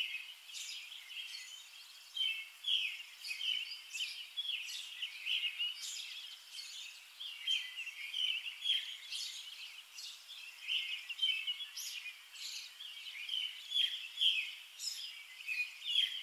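Small birds chirping and twittering: a dense, unbroken run of short high chirps, several a second.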